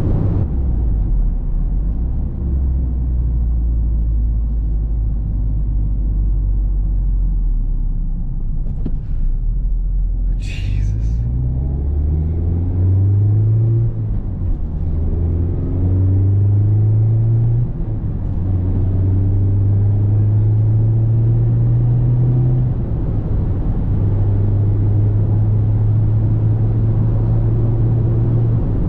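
Mazda Miata's four-cylinder engine and road noise while driving at highway speed. The engine note holds low and steady at first, then rises and drops back several times over the second half as the car accelerates. There is a brief high-pitched blip about ten seconds in.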